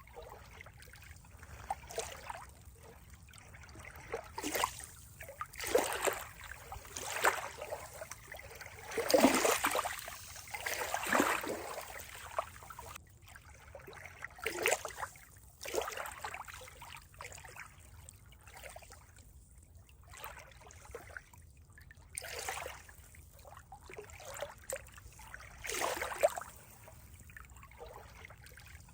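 Water trickling and gurgling in irregular small splashes, with a busier stretch about nine to twelve seconds in.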